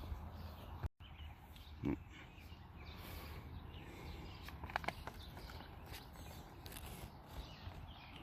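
Quiet outdoor ambience with faint birdsong and a few soft clicks and knocks, likely from handling or footsteps, with a short silent dropout about a second in.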